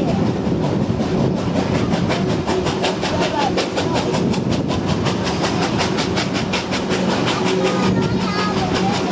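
Heritage train hauled by NSW steam locomotive 3642 running at speed, with a fast, even rhythmic beat. A steady low hum joins in over the second half.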